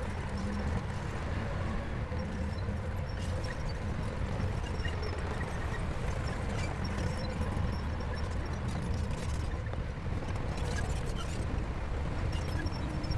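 Heavy diesel earthmoving machinery running steadily, a deep engine rumble with scattered light metallic clicks and clanks.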